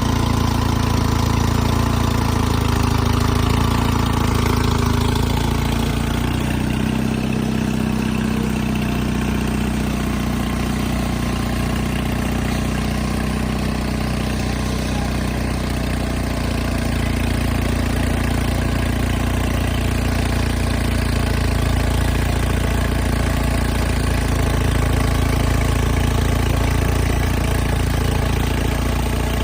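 Diesel engine of a piece of earthmoving equipment running steadily under work, its note shifting for a while as the load changes.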